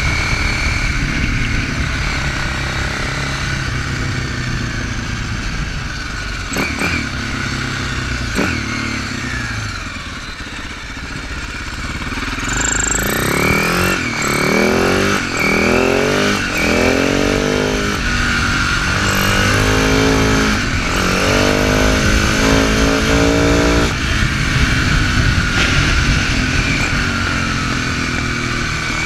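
Husaberg FS650 supermoto's single-cylinder four-stroke engine heard on board while riding. It pulls steadily, eases off about ten seconds in, then rises in pitch several times in a row as it accelerates up through the gears, and settles into a steady cruise near the end.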